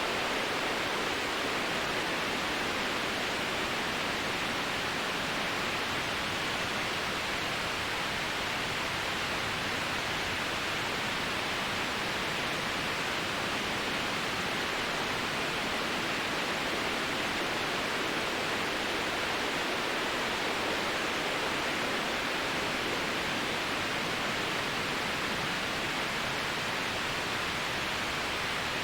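Steady generated white noise: an even, unchanging hiss with most of its energy in the middle range and little deep bass or top treble.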